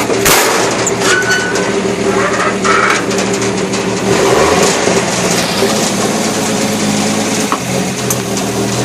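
Truck engine running steadily, not yet fully warmed up, with a single sharp clunk just after the start.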